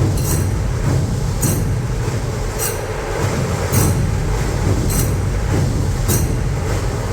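Dhol-tasha ensemble playing: heavy dhol drums and rattling tasha drums in a dense, continuous beat, with a cymbal clash about once a second.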